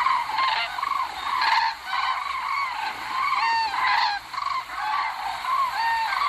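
A flock of flamingos calling: a chorus of short, overlapping honking calls, several a second.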